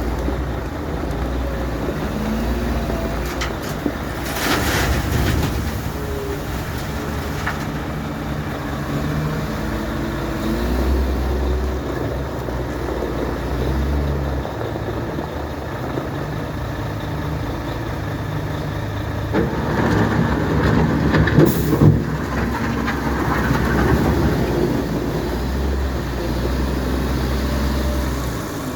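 Diesel engine of a Caterpillar 930K wheel loader running, its pitch shifting as the revs change, with louder working stretches and a couple of sharp knocks about two-thirds of the way through.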